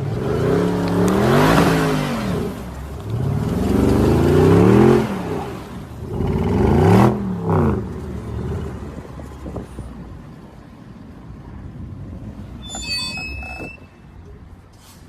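Road traffic: three vehicles pass close by one after another, each a loud swell of engine and tyre noise that rises and fades. Then a lower steady traffic rumble, with a brief cluster of high tones near the end.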